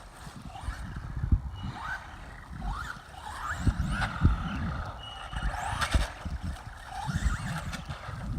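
Traxxas Rustler RC truck's Castle Creations brushless motor whining, its pitch rising and falling many times as it is throttled up and let off. A few sharp knocks from the truck hitting the ground.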